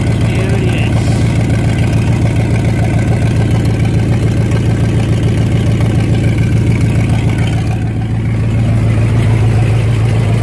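Engine idling steadily through newly fitted aftermarket exhaust headers, heard close to the headers from under the vehicle.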